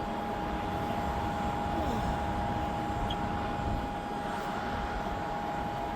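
Wind buffeting the microphone: a steady, uneven low rumble, with a thin steady tone running through it.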